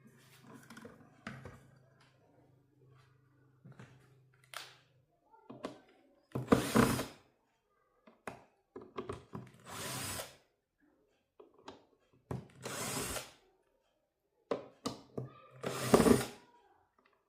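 A small handheld power tool runs in four short bursts of about a second each, with clicks and knocks of handling in between.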